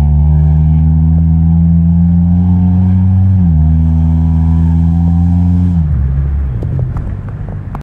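Honda Accord engine running loudly through a cheap aftermarket exhaust with no resonator. The pitch steps up slightly about three and a half seconds in and drops again near six seconds. The note then falls away and breaks up near the end.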